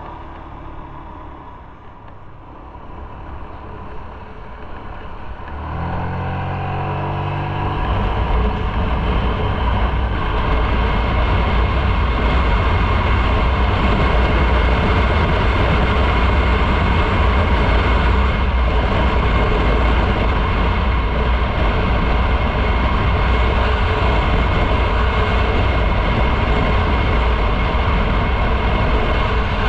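Motorcycle engine running low and quiet, then pulling away about six seconds in with the engine pitch rising, settling into a steady loud rush of engine and road noise while riding.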